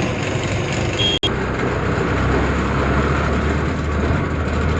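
Tata truck's diesel engine running, a steady drone with road noise. A sudden break about a second in, after which the drone sits lower.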